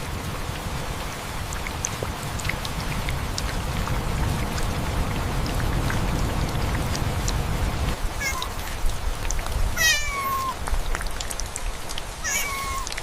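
A cat meowing three times, the middle call long and falling in pitch, over a steady patter of rain with scattered drop ticks.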